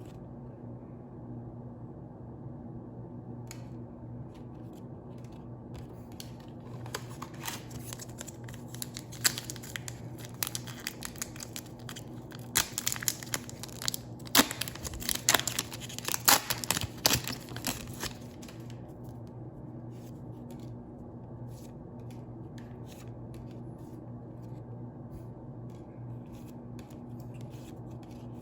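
Foil wrapper of a Pokémon booster pack being torn open and crinkled: a dense run of crackling and tearing from about seven seconds in until about eighteen seconds, loudest near the end of that run. A steady low hum sounds underneath throughout.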